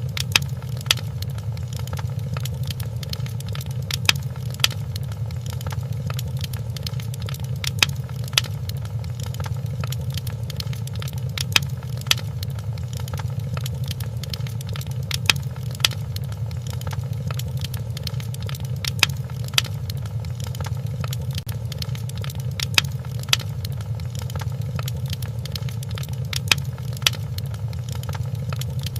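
Crackling wood fire in a fireplace: a steady low rumble of the flames with sharp pops, the loudest coming in pairs about every three and a half to four seconds.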